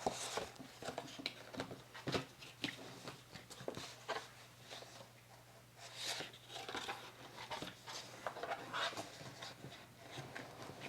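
Paper and card being handled on a craft table: soft irregular rustles, light taps and small clicks as pieces are picked up, moved and tried for fit, over a faint steady hum.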